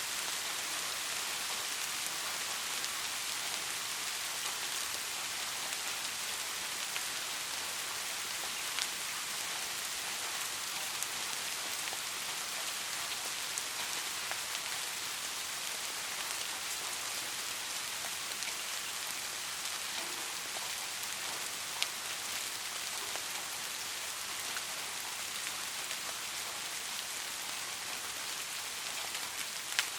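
Soft, steady rain: a continuous even hiss of falling drops, with a few louder single drops ticking now and then.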